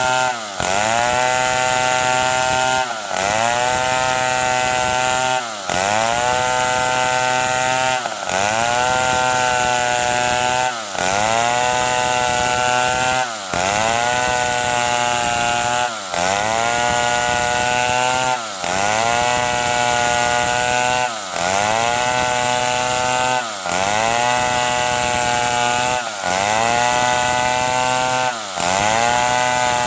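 Stihl 070 two-stroke chainsaw cutting wood. The engine dips briefly and revs back up to a steady cutting pitch about every two and a half seconds.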